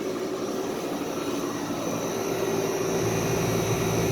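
Vintage Day & Night central air conditioner's outdoor condensing unit running: condenser fan and old reciprocating compressor making a steady hum that grows louder, with a deeper hum coming in about three seconds in.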